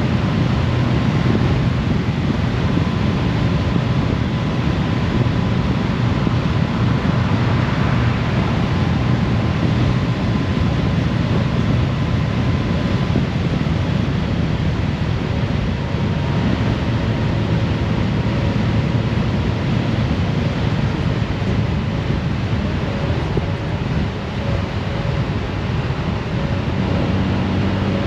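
Honda Gold Wing motorcycle under way at a steady speed: wind rushing over the microphone over the low running of its flat-six engine and road noise, with no gear change or sudden sound.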